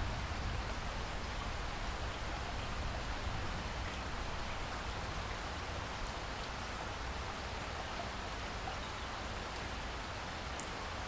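Steady rainfall, an even hiss of drops with a few faint, sharper drop ticks.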